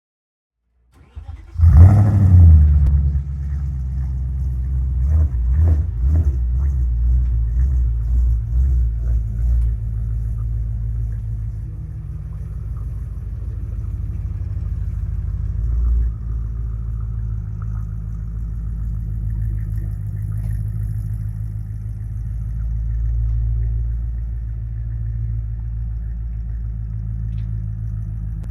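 2006 Audi S4 Avant's 4.2-litre V8 cold-started: a brief crank, then it catches with a loud flare about two seconds in. It runs unevenly at a fast idle for several seconds, then settles to a steady low idle.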